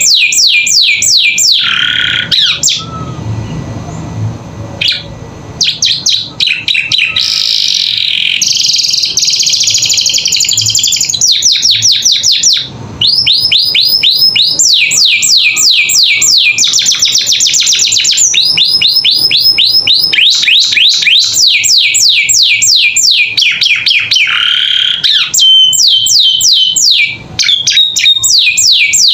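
Domestic canary singing a loud, continuous song of fast trills and rapidly repeated sweeping notes, with a softer stretch a few seconds in.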